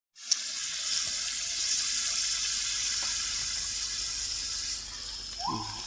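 A steady high-pitched hiss that eases off near the end, with a short pitched sound starting just before the end.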